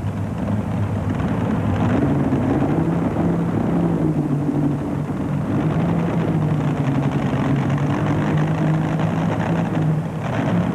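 Mini rod pulling tractor's engine running at a steady low speed, a deep even drone with small shifts in pitch and no hard revving.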